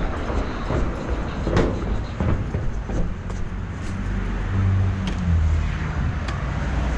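Motor vehicle engine running amid street noise, with a low hum that strengthens about four to five seconds in and a few short knocks.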